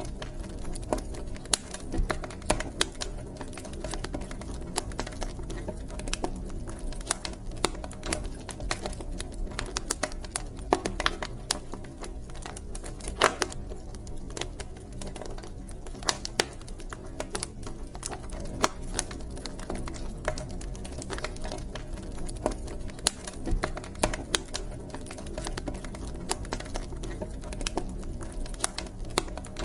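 Wood fire burning in a fireplace, crackling with many irregular sharp pops and snaps over a low steady rush of flame.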